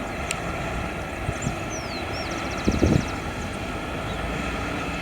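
Boeing 737-700's CFM56-7B jet engines running at a distance, a steady rushing sound with faint tones. A couple of low thumps come about halfway through, and a few high chirps just before.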